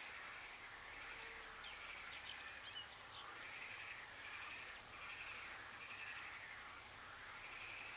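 Faint outdoor ambience with distant birds calling: a run of repeated calls about one a second, and a few quick high chirps in the first half.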